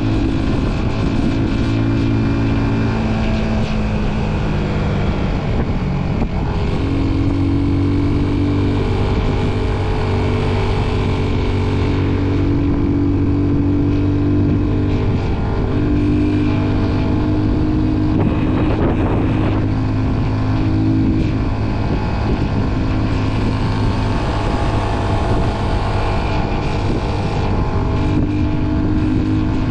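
Motorcycle engine running steadily while riding, its pitch shifting a little every few seconds with throttle and speed, with wind buffeting the microphone.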